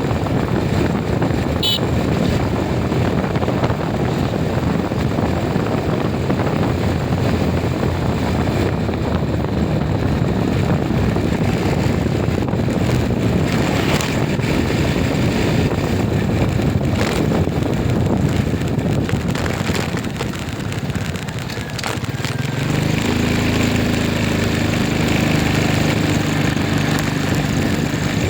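Vehicle engine running with wind and road noise while driving. About 22 seconds in, the noise dips briefly, then a steady engine hum takes over.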